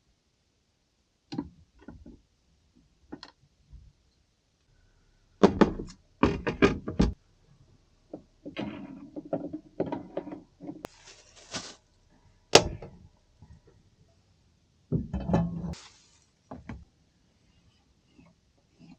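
A series of irregular knocks and thuds, some in quick clusters, with a short hiss about eleven seconds in.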